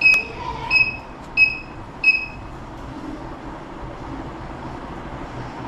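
BLDC fan conversion board's buzzer beeping four times, evenly spaced and high-pitched, to confirm speed 4 set from the remote, over a steady low hum.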